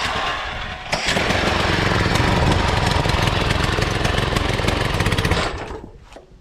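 Small engine of a homebuilt lawnmower-based race mower running hard with a fast, even firing pulse, then dying away near the end.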